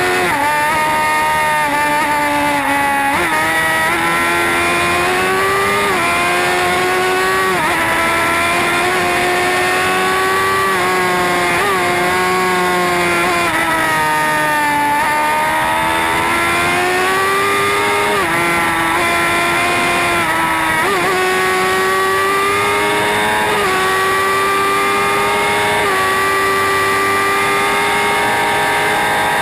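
Sport motorcycle engine running hard at high revs. Its pitch climbs steadily and then drops sharply every couple of seconds, over a steady rush of wind noise.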